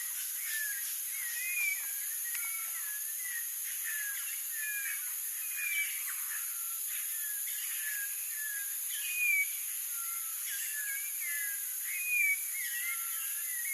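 Orange-backed troupial singing: a steady run of short whistled notes that slide up and down, a few ringing out louder. A steady high-pitched insect drone runs behind.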